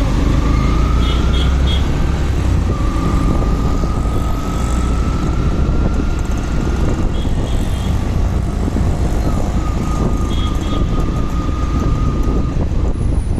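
Motorcycle riding through city traffic: a loud, steady rumble of engine, wind and road noise. Short high beeps come in quick groups of two or three a few times.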